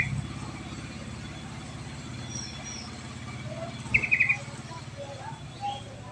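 Recorded birdsong from a yellow-vented bulbul lure track with mixed-in filler songs: a short, rapid buzzy trill about four seconds in and a few scattered short chirps, over a steady low hum.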